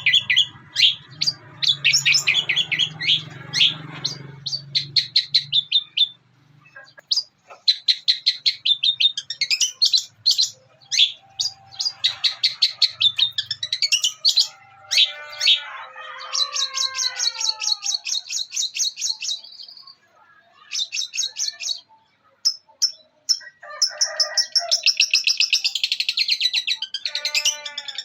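Long-tailed shrike singing a fast, chattering song of rapidly repeated notes in long runs with short breaks, including mimicked calls of other birds such as the Eurasian tree sparrow. A low hum sits under the first few seconds.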